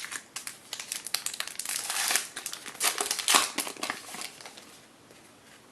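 Foil trading-card pack wrapper crinkling as it is handled and opened, with the crinkling dying away about four and a half seconds in.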